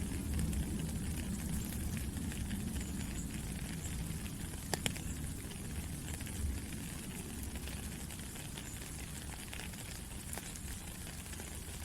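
Steady rainfall, an even hiss with a low rumble under it and scattered sharper drop ticks, one louder about five seconds in.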